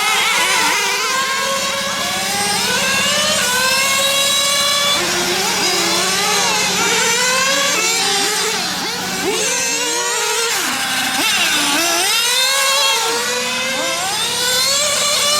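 Several nitro RC car engines running on a track, revving up and down in overlapping whines that rise and fall as the cars accelerate and brake, over a steady low tone.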